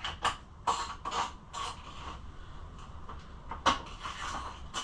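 Irregular clicks and knocks of bolts and parts being handled and fitted during reassembly of a Kawasaki KLX140 dirt bike, the sharpest knock a little before the end.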